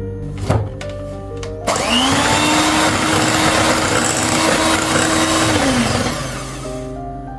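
Electric kitchen appliance motor switched on: it spins up with a rising whine, runs with a loud, steady whir for about four seconds, then winds down and stops.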